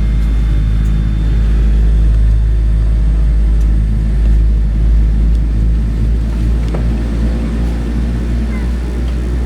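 Steady, deep rumble inside the cabin of a Boeing 787-9 airliner on the ground.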